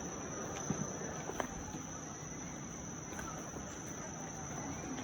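Insects chirring in one steady high tone over a low, even background noise, with a few faint clicks.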